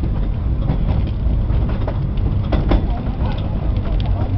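Moving train heard from inside a small passenger carriage: a steady low rumble of the running carriage, with occasional clicks and knocks from the wheels on the track.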